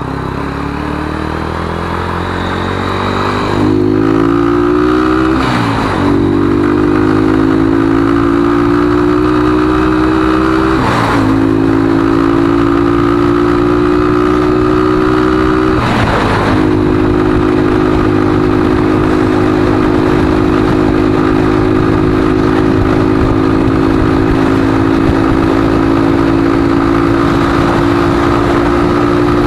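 Lexmoto ZSX-F 125 motorcycle's 125cc single-cylinder engine accelerating hard. Its pitch climbs through each gear, with four brief breaks for upshifts in the first half, and then it holds a steady note at cruising speed.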